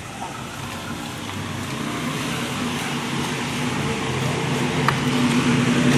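Street traffic: a motor vehicle's engine grows steadily louder as it draws near, its low hum coming in about a third of the way through and strengthening toward the end.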